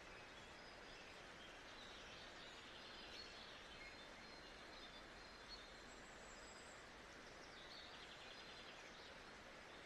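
Faint nature ambience: a steady hiss with soft bird calls, a few chirps about two to three seconds in and again near the end.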